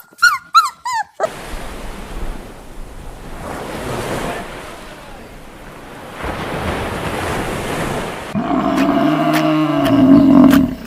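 A dog's sharp yelps in the first second, then several seconds of steady rushing noise. Near the end comes a loud drawn-out animal call lasting about two and a half seconds.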